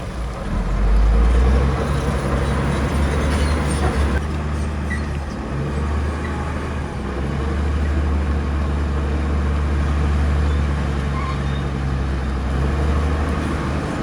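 Heavy diesel engine of earthmoving machinery running with a steady low note, getting louder about a second in.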